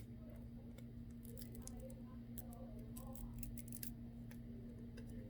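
Faint, irregular small clicks and scratches of a repair tool prying a small plastic piece out from behind a smartphone's side buttons, over a steady low hum.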